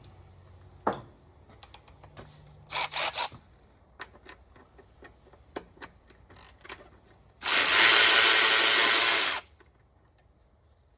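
Work on a skid steer engine: a few clanks and clicks of hand tools, then a power tool runs steadily for about two seconds and stops.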